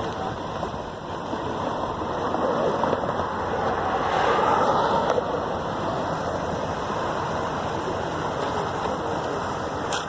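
A vehicle passing on the road: a steady rushing noise that swells to its loudest about four seconds in, then settles back.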